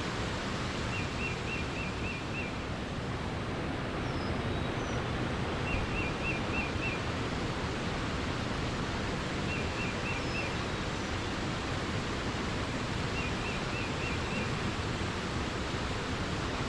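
Steady rush of flowing water, like a stream or small waterfall. A small bird calls a quick run of five or six repeated notes four times, about every four seconds, with a few faint high chirps from other birds.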